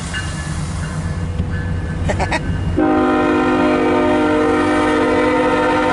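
CSX diesel freight locomotive running with a low engine rumble; about three seconds in, its multi-chime air horn sounds a long, steady chord.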